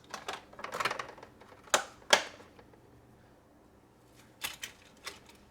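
Small hard plastic toy pieces clicking and clattering as they are handled and set down, with two loud sharp knocks about two seconds in and a few lighter clicks near the end.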